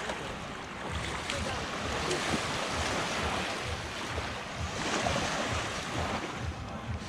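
Surf washing onto a sandy beach, swelling twice as waves come in, with wind buffeting the microphone.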